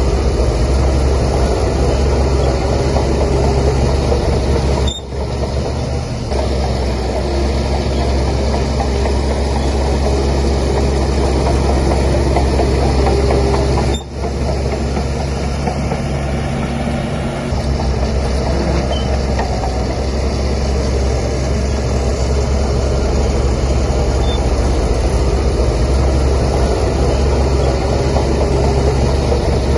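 Heavy diesel earthmoving machinery at work, a bulldozer's engine running loud and steady with a deep drone. The sound drops out briefly about five seconds in and again about fourteen seconds in.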